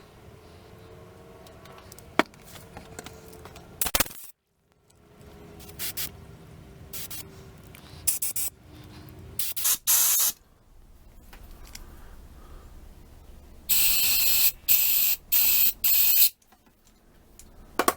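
Short blasts of spray forced into a string trimmer carburetor's passages. There are scattered squirts at first, then four loud ones in quick succession near the end. This is a check of the fuel inlet, which seems to be plugged up solid.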